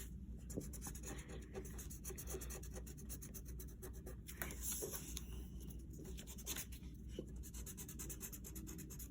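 Colored pencil scratching on paper in quick back-and-forth strokes, colouring in an area of a drawing.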